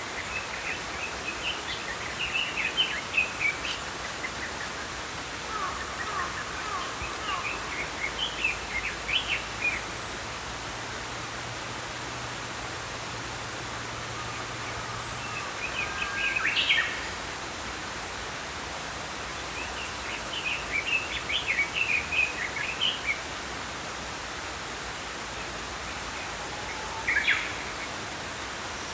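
Small songbirds chirping and twittering in five or so short bursts of song, over the steady rush of a flowing brook.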